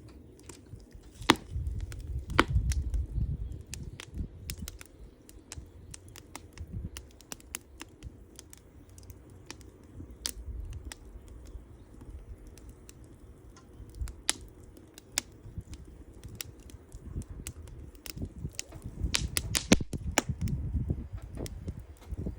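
Wood campfire crackling, with irregular sharp pops and snaps, a few much louder than the rest, over a low rumble that swells twice, early on and near the end.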